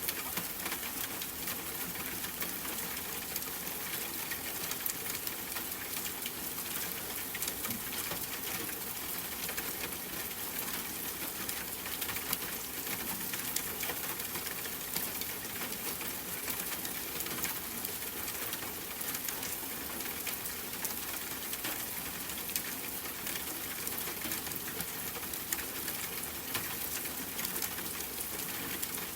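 Steady rain falling as a constant hiss, with frequent small ticks of individual drops landing.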